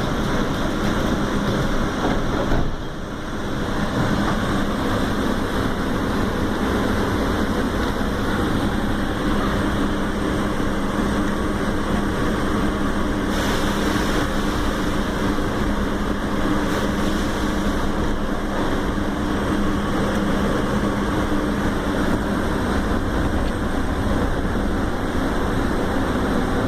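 Sawmill chop saw and its machinery running steadily with a constant low hum. The sound dips briefly about three seconds in, and a short hiss comes in around the middle.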